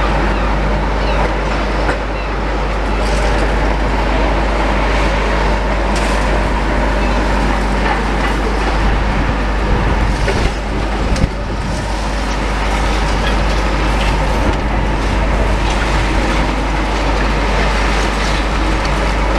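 Heavy diesel demolition machinery running steadily, with a few short knocks of debris about halfway through.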